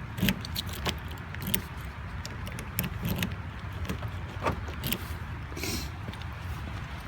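A bunch of keys jingling and clicking in a hand, a scattered series of sharp metallic clicks over a steady low rumble, with a short hiss about two-thirds of the way through.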